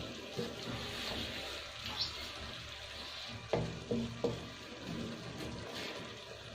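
Potatoes, fenugreek and spinach sizzling as they fry in ghee and masala, with three sharp knocks of a stirring spoon on the pot a little past halfway.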